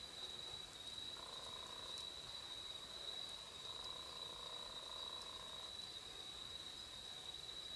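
Quiet outdoor night ambience around a wood campfire: a steady high insect trill, a few faint crackles from the fire, and two longer, lower drawn-out calls, the first about a second in and the second near the middle.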